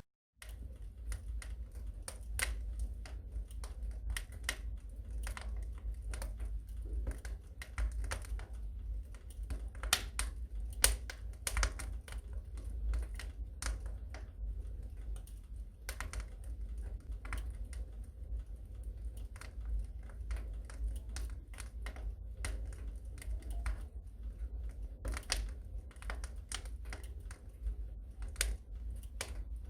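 Wood fire crackling in a fireplace: irregular sharp pops and crackles over a low, steady rumble.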